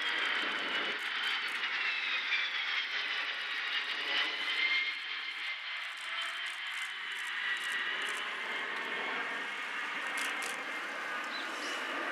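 Kawasaki C-1 and C-2 military transport jets flying past together in formation: steady turbofan jet noise with a high whine that slowly drops in pitch as they go by.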